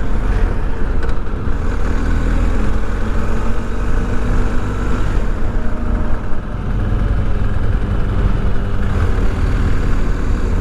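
Wind rushing over the microphone of a BMW R 1250 GS rider at road speed, with the bike's boxer-twin engine running steadily underneath.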